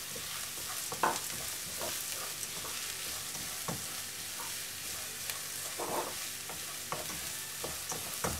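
Chopped onions, chana dal and urad dal sizzling in oil in a nonstick kadai while a wooden spatula stirs them, with a steady hiss and scattered scrapes of the spatula against the pan, the clearest about a second in and near the end. The dals are being fried until golden brown.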